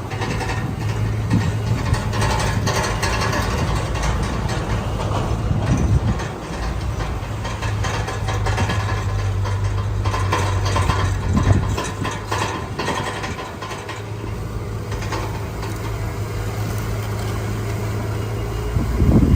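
Heavy diesel machinery engine running steadily, with intermittent metallic clanking and clatter over it.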